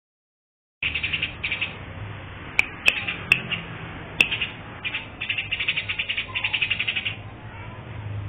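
Bird singing in bursts of fast chattering trills, with four sharp clicks between about two and four seconds in.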